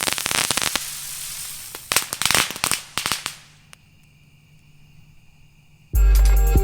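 Fireworks crackling, hissing and popping in quick bursts, fading out after about three and a half seconds. Loud music starts near the end.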